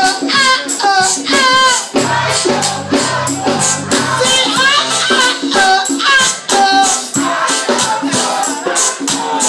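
Live band music: a song with a melodic vocal line over a steady percussion beat and bass.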